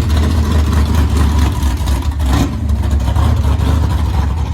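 A classic muscle car's engine running with a loud, low exhaust rumble, with a brief sharper burst about two and a half seconds in.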